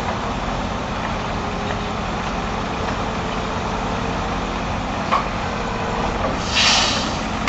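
A heavy truck's engine running steadily, with a click about five seconds in and a short hiss of air near the end.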